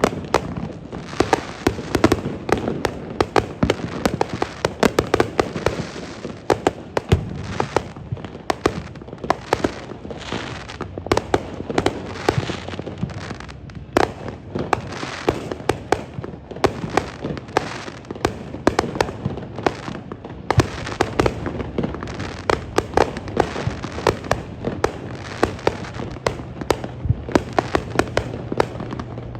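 Fireworks display going off: a dense, unbroken barrage of bangs and crackling pops, several every second.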